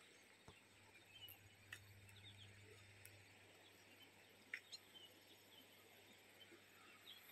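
Near silence with faint birds chirping now and then, and a few soft clicks.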